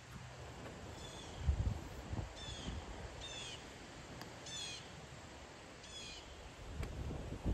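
A bird calling repeatedly: five short calls, each with a quick fall in pitch, about a second or so apart. A low rumbling noise runs underneath and is loudest about a second and a half in.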